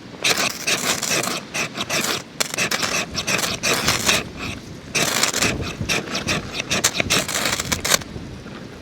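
Rough scraping and rubbing in quick irregular strokes, in two long spells with a short pause a little past halfway.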